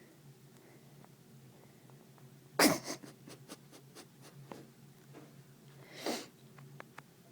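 A cat sneezing twice, about three and a half seconds apart; the first sneeze is the louder. Faint ticks and taps fall between them.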